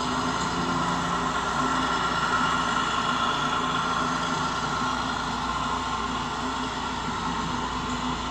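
A steady engine sound running at an even pace, with a low hum held throughout.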